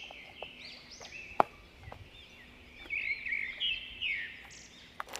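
Small birds chirping: quick, high, arching chirps repeated many times over, with one sharp click about a second and a half in.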